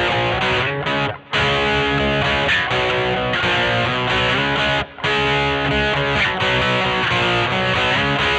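Squier Vintage Modified Jaguar electric guitar played through an amplifier: sustained strummed chords that change as it goes, with the sound cutting out briefly about a second in and again near five seconds.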